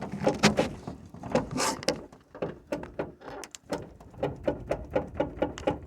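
Rear door of a T1N Sprinter van shaken by hand, creaking and knocking in a quick repeated rhythm of several strokes a second. This is the squeak the owner has traced to the middle of the door, where the inner door panel is cracked and coming apart, which he thinks may be the root cause.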